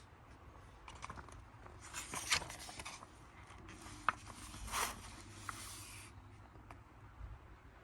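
Magazine pages being handled and turned, two spells of paper rustling with small clicks and taps between them.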